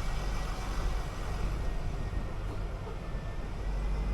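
City bus running along the road: a steady low engine and road rumble with a faint thin whine above it.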